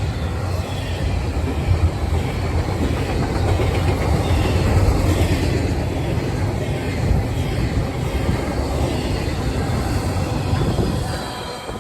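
Freight train rolling past, its wheels running over the rail joints in a steady rumble. The sound drops away near the end.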